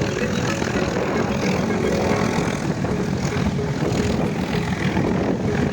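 A vehicle's engine running with a steady, unbroken drone.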